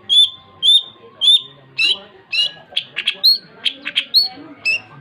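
Long-tailed shrike (cendet) singing in full voice: short, sharp whistled notes about twice a second, turning into harsher, scratchy chattering notes about halfway through.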